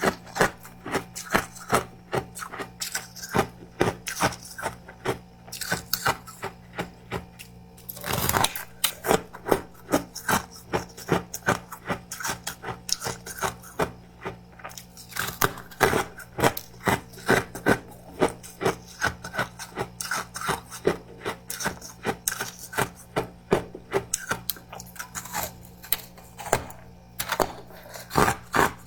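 Close-miked chewing of powdery freezer frost: rapid crisp crunches, two or three a second, with a longer grinding crunch about eight seconds in.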